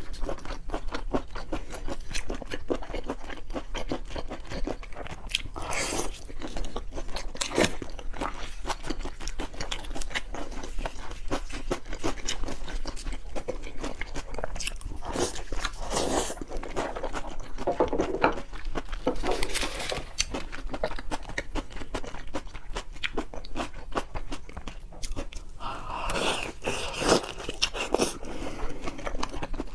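Close-miked chewing and biting of seafood: a steady run of small wet clicks and crunches from the mouth, with a few louder, longer bursts of crunching or slurping now and then.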